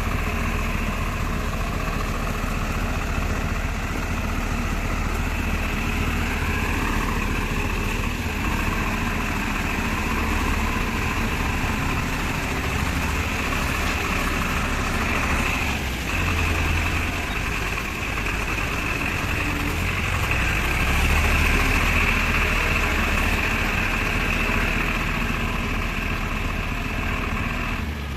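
Tractor engine running steadily for the whole stretch, a continuous low drone without breaks.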